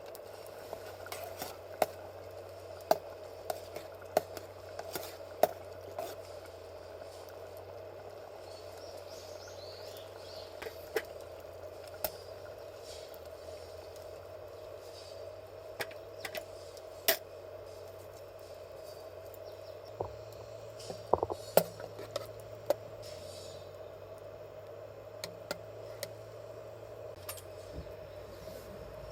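Scattered sharp clinks and taps of metal camp cooking gear, with a quick cluster of them about two-thirds of the way through, over a steady hum.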